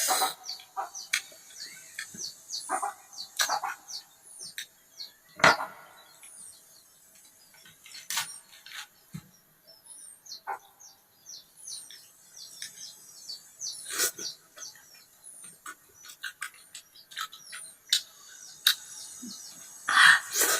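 Small birds chirping, short high falling chirps repeating about once a second, over scattered light clicks and a few brief louder noises.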